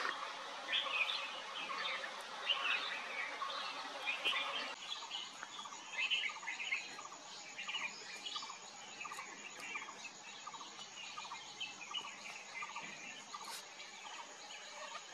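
A mix of wild birds calling and chirping, many short overlapping calls. About five seconds in, a thin steady high tone joins them and runs on to near the end.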